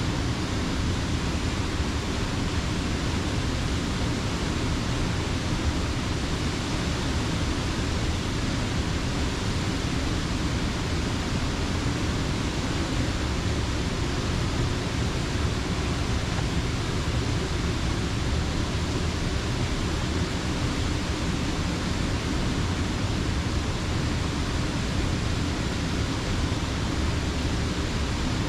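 Steady rush of falling water from a creek dam, even and unbroken.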